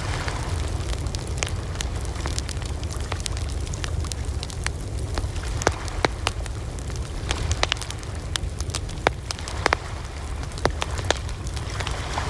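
Wood fire burning, crackling and popping with irregular sharp snaps over a low, steady rumble of flame.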